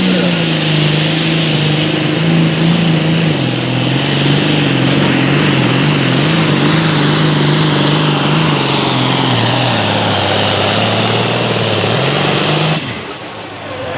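Turbocharged diesel engine of a Super Farm pulling tractor at full load, with water injection, dragging the sled. Its note sinks slowly as the engine is pulled down by the load, with a high turbo whine above it. The sound falls away sharply about 13 seconds in.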